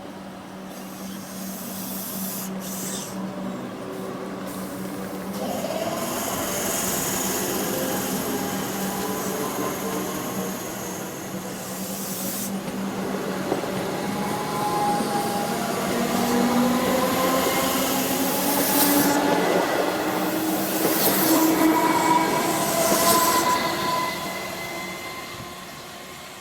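Melbourne Metro electric suburban train running through the station. It grows steadily louder for about twenty seconds, with whining tones sliding up and down in pitch, then eases off near the end.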